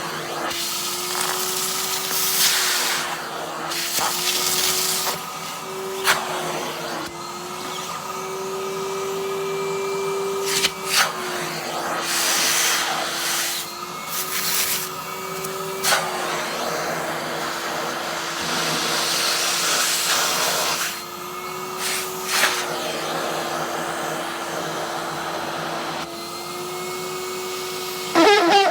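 Henry vacuum cleaner running steadily, its motor tone dipping and rising slightly as the nozzle is worked over a padded winter jacket, with swells of suction hiss and a few sharp knocks.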